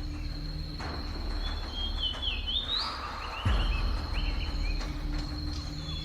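Rainforest ambience: a steady high-pitched insect drone, with short chirping bird calls in the middle, over a low steady hum.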